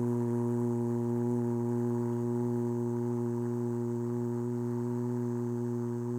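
A person's voice holding one long, steady "foo" on a single pitch while breathing out: the qigong kidney healing sound, voiced through a full exhalation.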